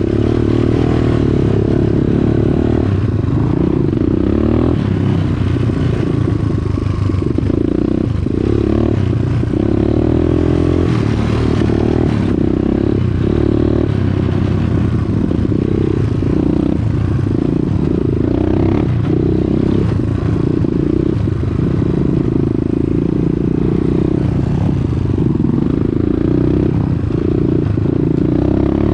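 Dirt bike engine running while riding, its pitch rising and falling repeatedly with the throttle.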